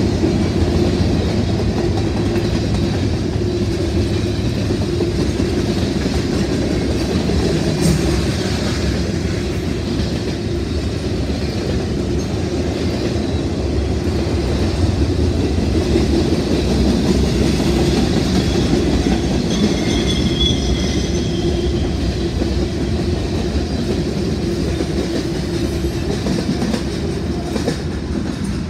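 Freight train cars rolling past, their wheels clicking steadily over the rail joints. A thin, high wheel squeal rises briefly about twenty seconds in, and the sound eases off near the end.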